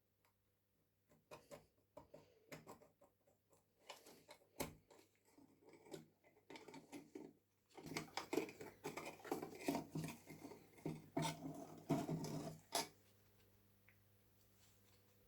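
Small metal parts handled on a workbench: scattered light clicks and taps, then about five seconds of dense scraping and rubbing that stops abruptly near the end.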